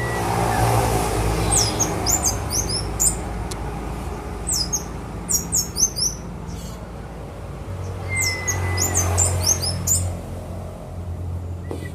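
Orange-headed thrush singing: three bursts of quick, high, chirping notes separated by short pauses. A low rumble runs underneath, swelling at the start and again near the end.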